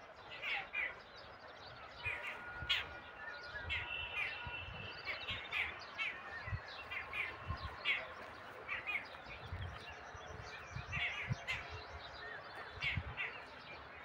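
Birds chirping outdoors: many short, high chirps at irregular intervals, with a few longer held whistling notes, over faint scattered low thumps.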